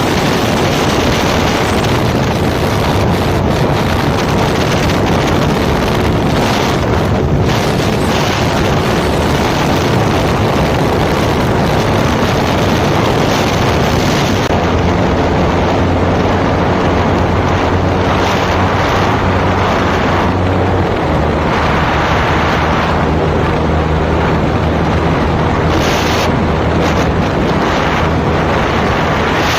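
Motorcycle ridden at speed: a loud, steady rush of wind on the microphone over the engine's low drone. The drone comes through more clearly about halfway through.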